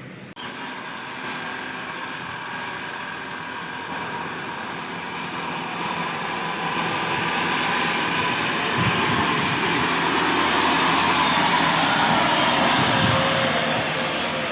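Old truck's engine running steadily, growing louder from about six seconds in.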